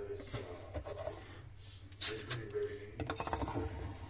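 A metal spoon scraping and scooping coarse salt out of a dishwasher's salt reservoir, in several gritty scrapes that grow stronger about halfway through.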